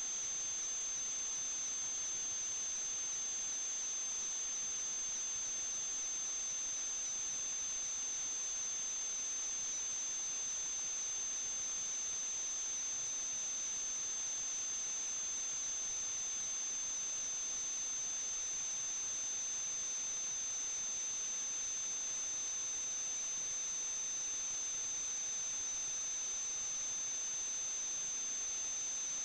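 Steady high-pitched electrical whine, two unchanging tones over a constant hiss, with no other sound.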